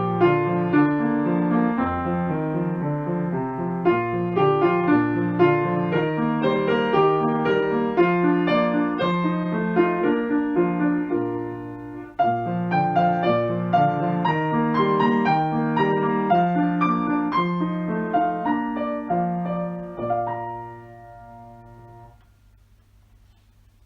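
Background piano music, a gentle melody over steady chords, ending on a held chord that fades away near the end.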